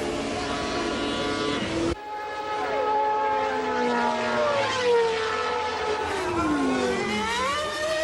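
Honda RA121E V12 of a 1991 McLaren MP4/6 Formula 1 car at high revs, then an abrupt break about two seconds in. The engine note falls steadily for several seconds as the car slows, then climbs again near the end as it accelerates.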